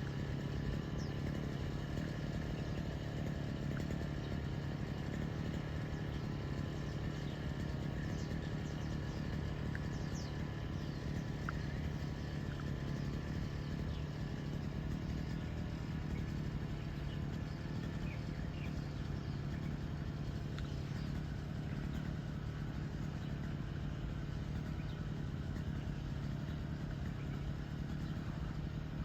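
A steady low mechanical hum, unchanging throughout, with a few faint, short high chirps scattered through it.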